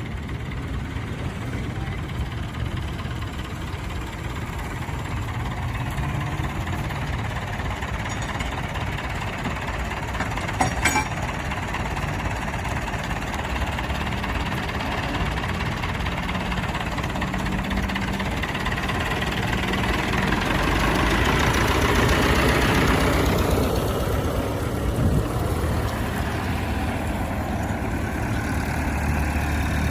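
Farm tractor's diesel engine running steadily as it hauls a boat up the beach, growing louder from about two-thirds of the way through. A single sharp click about eleven seconds in.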